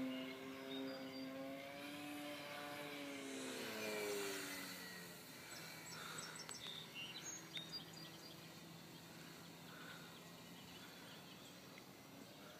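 Radio-control model airplane's motor buzzing in flight, wavering in pitch a few seconds in, then dropping lower and growing fainter. Birds chirp faintly in the second half.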